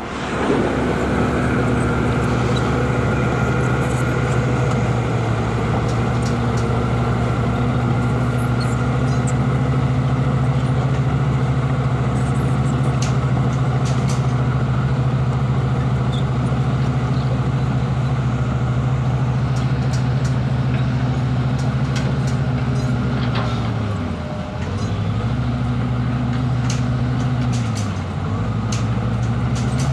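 Heavy diesel engine of a construction machine running loudly and steadily. Near the end its engine speed drops and picks up again twice, as under changing load.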